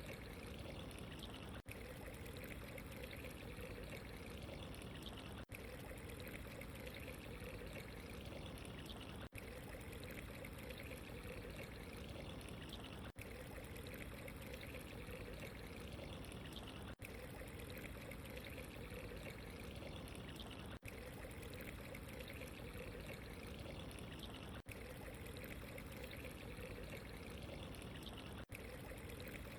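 Steady trickling, pouring water, a continuous ambience with a brief dip in level roughly every four seconds.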